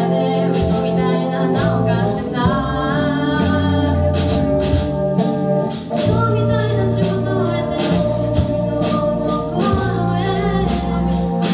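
A student rock band playing a song live, with a lead voice singing over drums, bass and electric guitar and an even beat.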